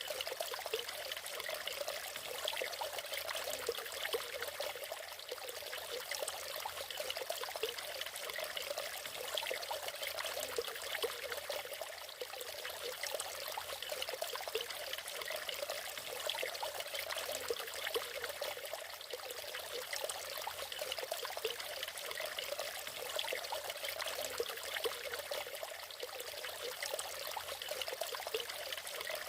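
Water of a natural waterfall falling and splashing steadily, a continuous trickling, pouring rush full of small splashes.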